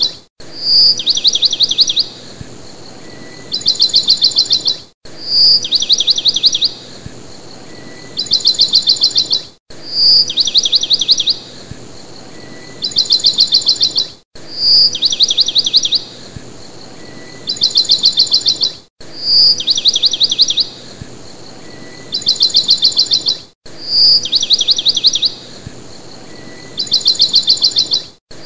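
Looped recording of a bird's call repeating every four and a half seconds or so: a high, rapid trill, one sharp chirp, then a second trill. Each repeat is separated by a brief drop-out where the loop restarts.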